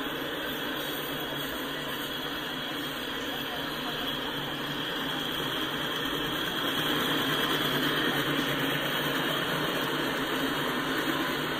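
Autorack freight cars rolling past at speed: the steady rushing noise of steel wheels on rail, a little louder about two-thirds in.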